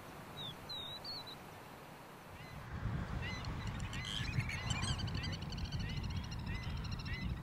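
Wild birds calling: a brief chirping call about a second in, then, from under halfway, a flock calling together, with many overlapping calls and one short call repeating about twice a second over a low rumble.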